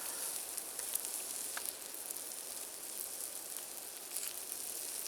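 Marinated meat sizzling over an open campfire: a steady hiss with scattered small pops and crackles.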